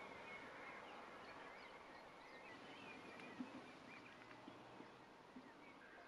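Faint outdoor ambience of a wetland, with distant small birds chirping and twittering throughout.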